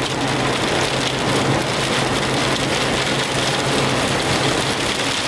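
Rain hitting a moving car's windshield and body, heard from inside the cabin: a steady, even hiss over a constant low hum from the car.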